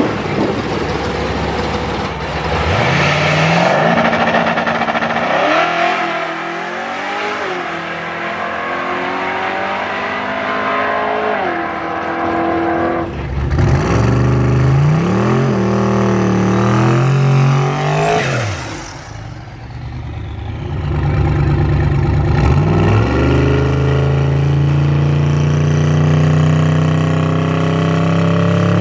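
Twin-turbo Dodge Demon's V8 engine revving loudly, its pitch climbing and falling several times. About eighteen seconds in, a sharp high rising sweep is followed by a brief drop in level, and the engine then holds a steady note.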